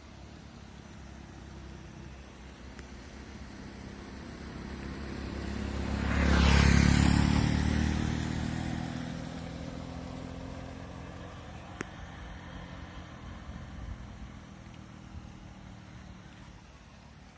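A motor vehicle approaching and passing by, its engine and tyre noise growing to a peak about six or seven seconds in, then fading away as it drops in pitch.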